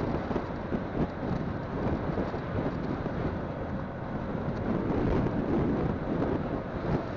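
Wind buffeting a phone microphone on a moving motorcycle, a steady low gusting noise that covers the road and engine sound.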